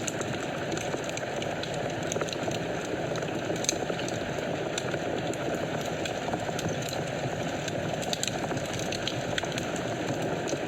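Wood fire burning in a fireplace: a steady low hiss of flames with scattered sharp crackles and pops, one louder pop about four seconds in.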